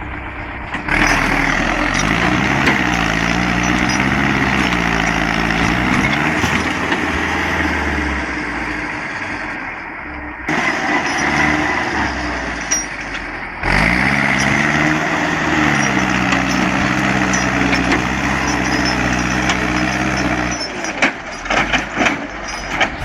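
Heavy vehicle engine labouring hard, its pitch rising and falling as it revs, under a loud hiss. The sound breaks off abruptly twice, about ten seconds in and again a few seconds later. Near the end the engine drops away and a quick run of knocks and clatters follows.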